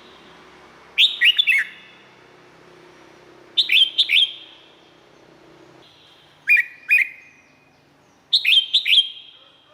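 Red-whiskered bulbul singing: four short bursts of quick, falling whistled notes, a few seconds apart.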